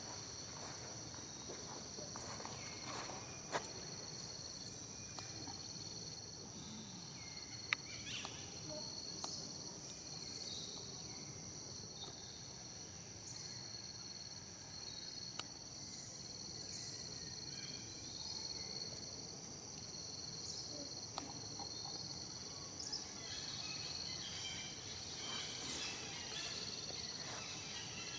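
Steady chorus of insects buzzing in several high, even tones, with a few sharp clicks and faint scattered chirps over it.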